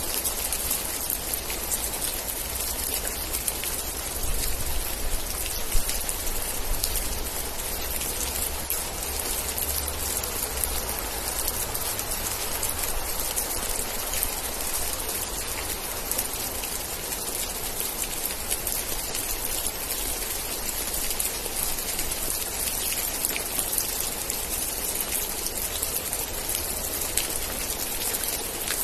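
Steady heavy rain: a dense patter of drops over an even hiss, with a low rumble underneath that swells a little between about four and eleven seconds in.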